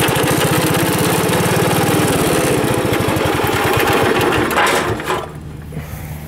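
The 1974 Wheel Horse B-80's single-cylinder engine running loud and steady, then dropping back to a quieter idle about five seconds in.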